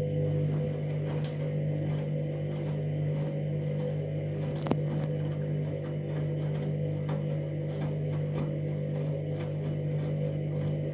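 Candy washing machine running with a steady low electrical hum that holds one pitch, with a single sharp click about halfway through.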